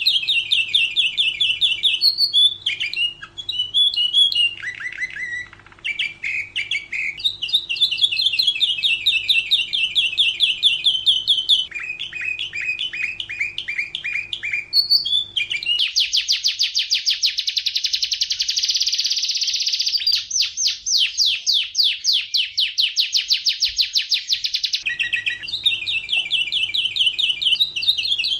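Domestic canary singing a long, continuous song of rapid trills and rolls, switching between series of repeated notes at different pitches. Between about 16 and 25 seconds the trill turns faster and denser, and a faint low hum underneath drops out.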